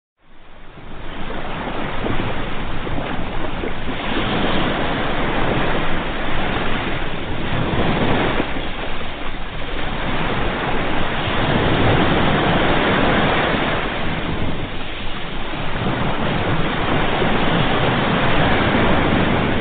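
Ocean waves washing onto a shore: a steady rushing surf that fades in from silence just after the start, then swells and eases every few seconds.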